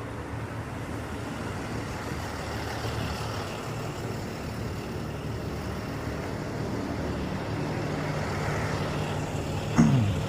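Motor vehicle engines running with a steady low hum that grows slowly louder, with a short sound gliding down in pitch near the end.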